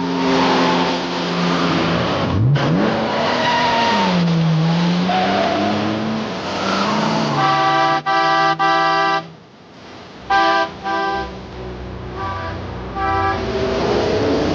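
Car chase sounds: engines revving and sliding in pitch with tyres squealing, then car horns honking in several short blasts from about eight seconds in.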